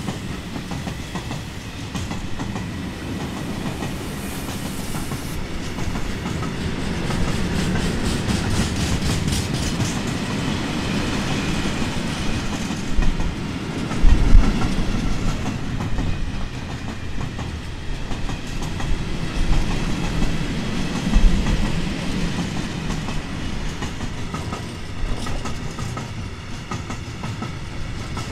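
A train running past on the rails with a steady rumble and wheels clattering over rail joints. Heavy low thumps come about halfway through and again about two-thirds of the way in.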